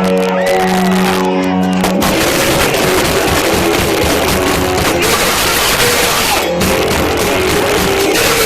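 A rock band playing loud live in a small bar, captured with badly distorted sound: guitars hold a chord for about two seconds, then the full band comes in dense and noisy.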